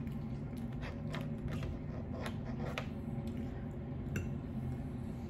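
Close-up eating sounds: a run of small crackling clicks from chewing, thickest in the first three seconds.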